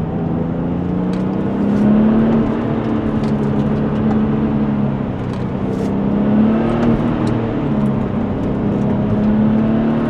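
Porsche 996 Turbo's twin-turbocharged 3.6-litre flat-six pulling hard, its note climbing and dropping back several times as the car accelerates and the throttle is lifted between bends.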